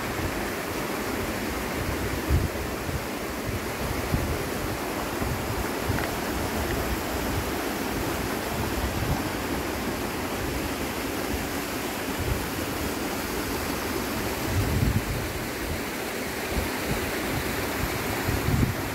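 Steady rushing noise with wind buffeting the microphone in irregular low gusts.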